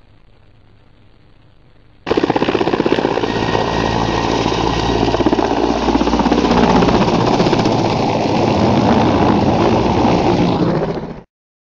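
A helicopter's rotor chopping rapidly and steadily at close range. It starts abruptly about two seconds in and cuts off suddenly near the end.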